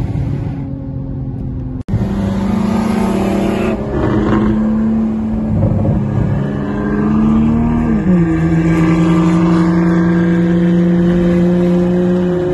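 Toyota Supra's engine heard from inside the cabin, pulling hard under acceleration with its pitch climbing slowly. The pitch drops suddenly with an upshift about eight seconds in, then climbs again, with another drop at the very end. The sound cuts out sharply for a moment just before two seconds in.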